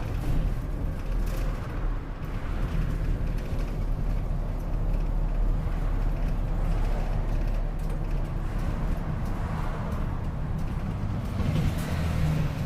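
Engine and road noise heard from inside a city route bus under way, a steady low rumble. A short hiss comes near the end.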